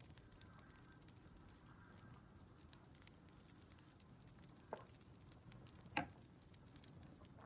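Faint crackling of a wood fire: scattered sharp snaps and pops over a low hiss, with two louder pops about five and six seconds in.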